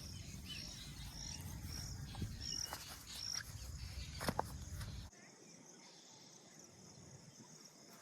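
Outdoor ambience of short, high chirping calls repeating every half second or so over a low rumble, with a few sharp clicks. About five seconds in, the rumble drops away suddenly and the sound goes much quieter.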